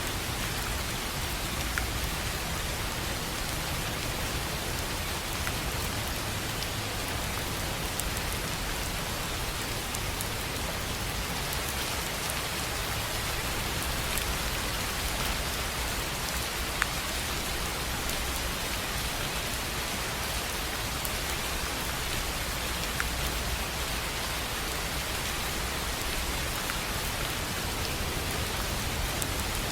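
Steady rain on a tin roof: a continuous even hiss of rainfall, with a few single louder drop hits standing out, about 2 seconds in, past halfway and again a few seconds later.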